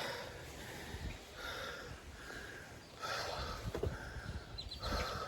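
A person breathing heavily and winded after hard physical work: four loud breaths, about one every second and a half.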